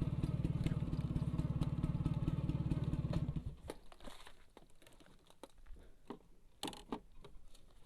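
Vespa scooter engine idling with a steady rapid pulse, then switched off about three and a half seconds in, after which only faint scattered clicks remain.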